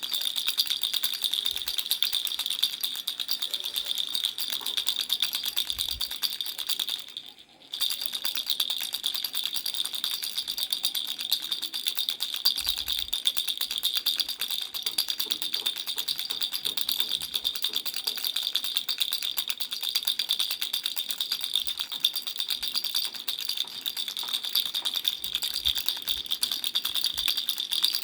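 Baby rattle shaken continuously, a dense, rapid rattling that stops briefly about seven seconds in and then resumes.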